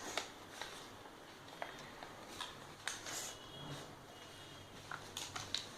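Sheet of paper being folded and creased by hand: faint, scattered rustles and crinkles.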